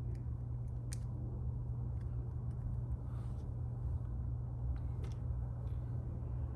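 A few faint, sharp clicks of small phone parts being handled and fitted during reassembly, over a steady low electrical hum.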